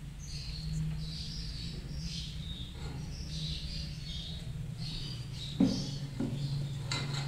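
Lovebirds chirping repeatedly in high, short calls, over a steady low hum, with a few knocks near the end.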